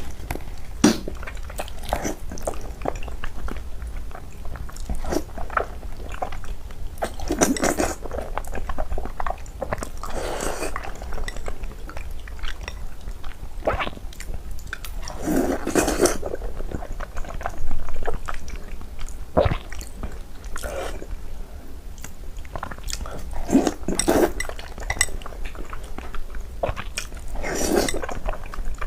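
Close-miked chewing and biting as mouthfuls of pork-skin rice soup are eaten, with many short sharp clicks in between.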